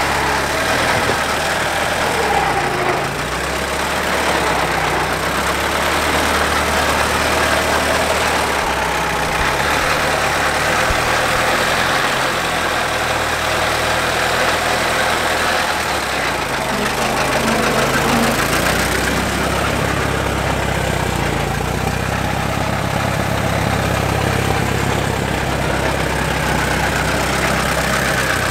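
Ford Model T's four-cylinder engine running as the car is driven slowly, its engine note shifting in pitch a few times.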